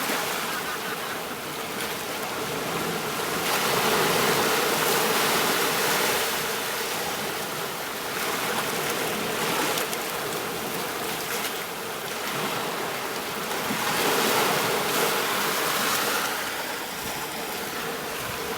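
Ocean surf washing onto a beach: a steady wash of waves that swells and ebbs, with two bigger surges, about a third of the way in and again near three quarters through.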